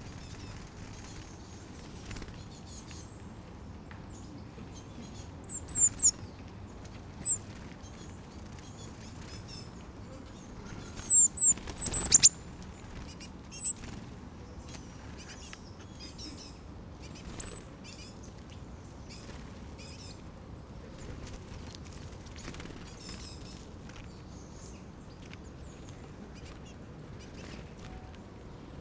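Great tits giving short, very high, thin calls every few seconds, several in quick succession around the middle, with one thump among them.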